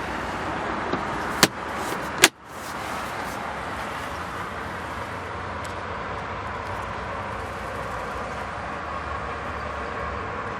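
Two sharp knocks about a second apart, the second the louder, as the trunk's shelf and trim panels are handled, over a steady background hum.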